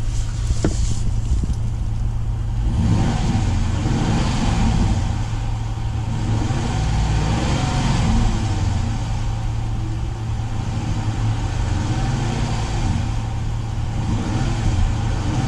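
Dodge 5.7-litre Hemi V8 idling, then revved several times from about three seconds in, its note rising and falling with each blip of the throttle.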